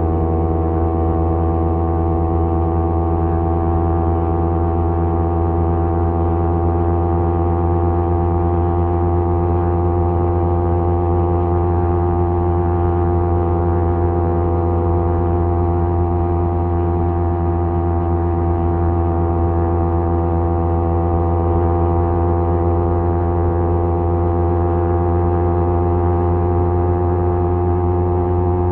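Kawasaki Z250 parallel-twin engine running through a SeaPro aftermarket muffler, held at a steady engine speed while cruising, giving a constant, even exhaust drone.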